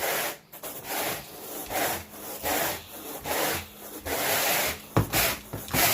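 Stiff bristles scrubbing carpet pile in repeated back-and-forth strokes, about two a second, working dirt out of a soiled spot. A sharp knock comes about five seconds in.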